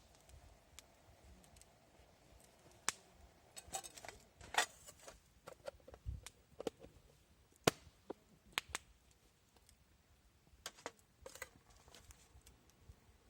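Irregular sharp clicks and light knocks, about a dozen scattered through, the loudest a little past halfway, over a faint quiet background.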